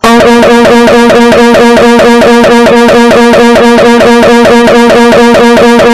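Extremely loud, distorted electronic noise effect: a steady pitched buzzing drone with a fast, even warble several times a second. It starts abruptly at full volume.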